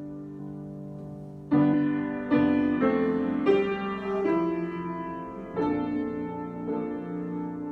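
Solo piano playing slow, improvised chords: a held chord fading away, then fresh chords struck about a second and a half in and several more after, each left to ring and decay.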